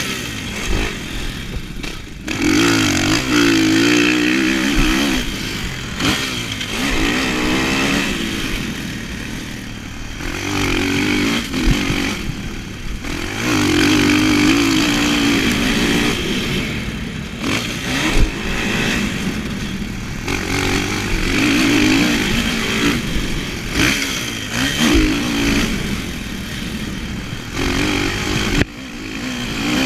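Motocross dirt bike engine heard from the bike itself, revving hard and backing off over and over as it is ridden round the track, with short dips in between.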